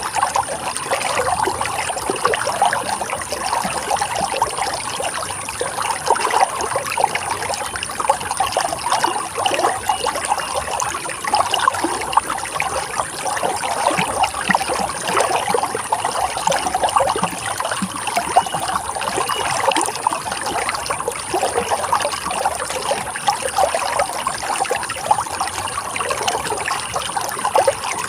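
Running water of a stream, a steady babbling trickle with no pauses or changes.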